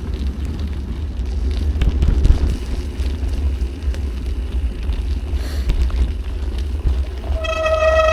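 Wind buffeting the microphone and tyres rumbling on a gravel trail while cycling, a steady low rumble. Near the end a steady, single-pitched horn-like tone sounds for about a second and a half.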